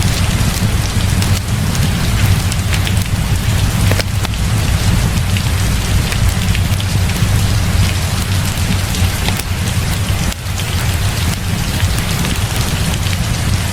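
Heavy rain falling steadily, with a constant low rumble underneath and scattered sharp ticks.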